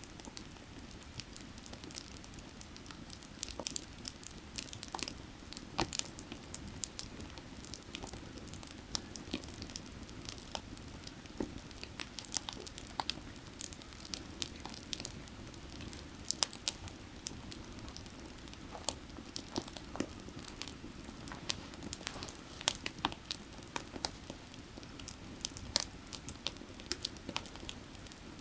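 Burning firewood crackling, with frequent irregular sharp snaps and pops, over the steady low rush of running creek water.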